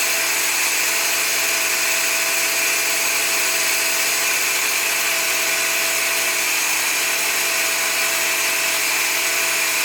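Toyota 1NZ-FE four-cylinder engine with a bolt-on turbo idling steadily on a cold start; this is the engine's mechanical noise.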